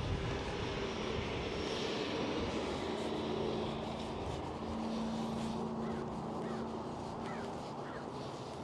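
A distant engine's steady drone, with a held low hum, slowly fading toward the end.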